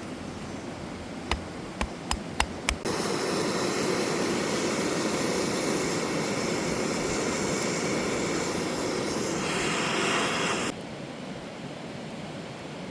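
Five quick sharp clicks, then a steady rushing hiss that starts right after the last click and cuts off suddenly about eight seconds later, like a camping gas stove's piezo igniter clicking until the burner catches and runs.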